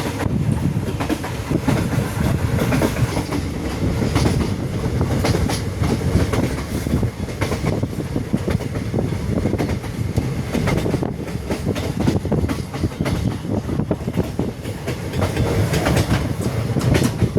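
Continuous low rumbling noise with a dense run of irregular clicks and knocks, steady in level throughout.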